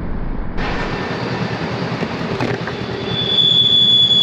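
Train passing with a rumble of wheels on rails; about three seconds in, a steady high-pitched wheel squeal sets in and grows louder.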